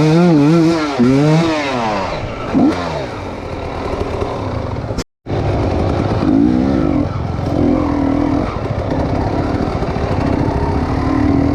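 Chinese enduro motorcycle engine revving, its pitch rising and falling with the throttle. The sound cuts out briefly about five seconds in, after which the engine runs at steadier, lower revs.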